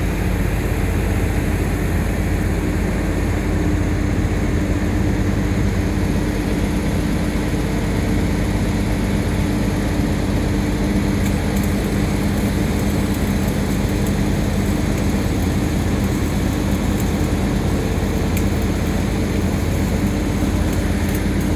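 Heavy engine running steadily at constant speed, a continuous hum with a low rumble, with a few faint ticks in the second half.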